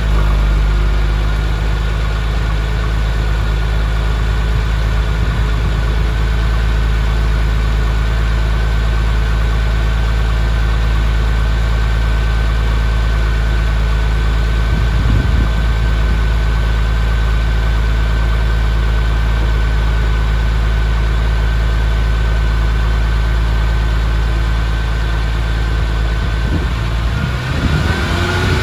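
2002 Porsche Carrera's flat-six engine idling steadily as it warms up after a cold start. The sound changes near the end.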